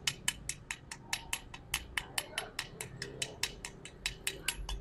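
Light, rapid hammer taps on a fresh MIG weld bead on thick steel, about six a second, knocking off the thin layer of dust left on the weld.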